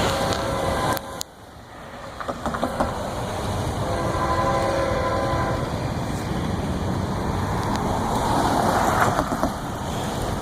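Florida East Coast Railway locomotive horn blowing really loud chord blasts: one at the start, a longer one about four seconds in, and another near the end. Between them the train rumbles and its wheels clatter over the rails.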